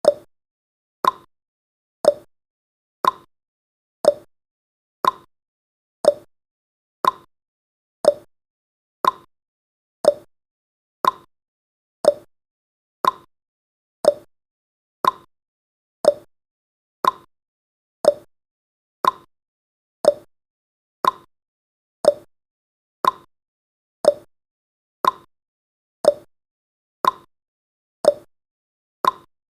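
Clock-style tick-tock sound effect of a countdown timer: a sharp tick once a second, alternating between a lower and a higher tick.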